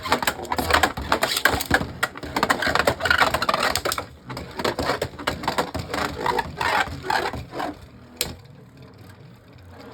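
Two Beyblade Burst spinning tops, Harmony Pegasus and Command Dragon, clashing in a plastic stadium: a rapid clatter of hits for about four seconds, thinning to scattered hits, then one sharp click about eight seconds in before the spinning settles quieter.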